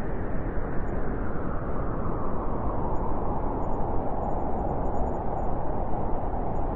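Blizzard wind blowing as a steady, dense rush, with a howling tone that grows stronger in the second half.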